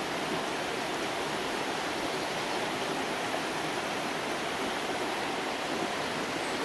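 Burn (a small stream) running steadily, an even, unbroken rush of flowing water.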